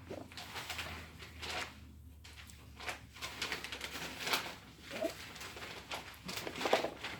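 A person drinking a bottled juice drink: irregular sips and throaty gulping swallows, with small handling noises from the bottle.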